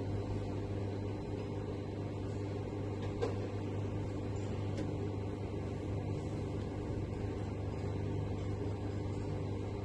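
Steady low mechanical hum inside a tower crane's cab, with a couple of faint clicks.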